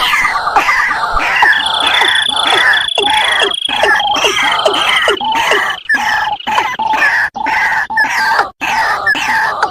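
Bird-lure recording of white-breasted waterhen calls: a dense run of quick, repeated falling calls with a steady high whistle-like tone partway through, broken by a few brief gaps.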